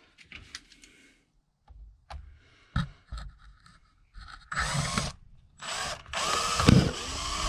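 Power drill with a left-hand bit working on a snapped brake-caliper bleed nipple, running in two bursts about four and a half and six seconds in, its pitch wavering under load, after a few clicks and knocks. The stub in the hole is hard: the owner suspects a snapped-off piece of carbon-steel tooling.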